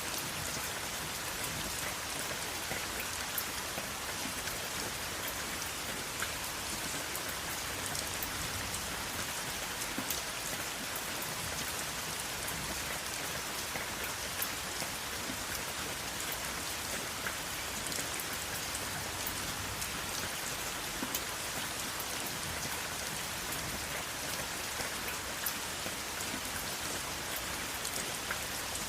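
Steady rain falling, with the even hiss of rainfall and many individual drops pattering on a surface.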